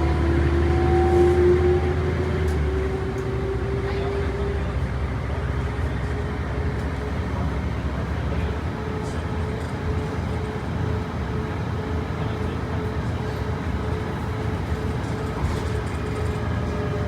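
Cabin sound of a 1998 Mercedes-Benz O405 bus on the move: the drivetrain whine rises in pitch over the first few seconds as the bus picks up speed, then holds steady over the road and engine noise. A deep rumble drops away about three seconds in.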